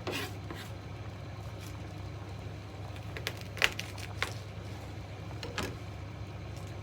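A few sharp clicks and knocks over a steady low hum. The loudest knock comes about three and a half seconds in.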